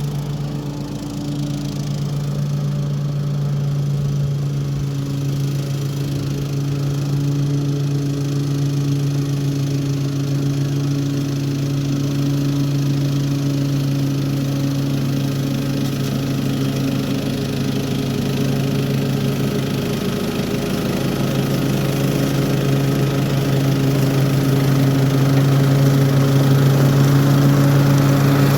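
Toro HDX 30-inch self-propelled mulching mower's engine running steadily while mowing, a constant low hum that grows a little louder near the end.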